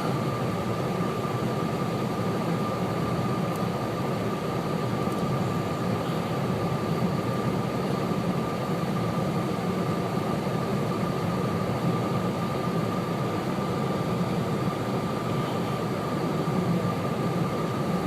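Steady in-cabin noise of a car driving on snow-covered roads: engine and tyre rumble under a constant thin whine, with no change in speed or any bump.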